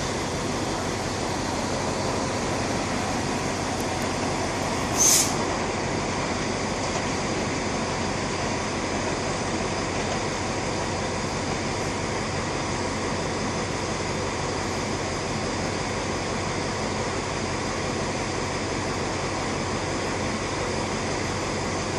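Express train running: a steady rushing rail noise throughout, with one brief sharp high-pitched sound about five seconds in.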